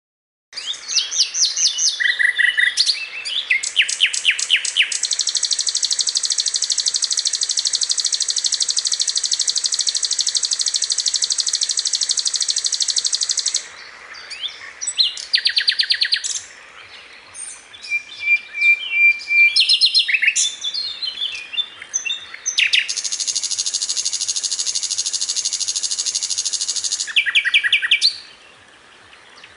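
Sikatan londo, a flycatcher, singing loudly. Short chirping phrases alternate with two long, very rapid high trills of several seconds each, one early and one in the second half.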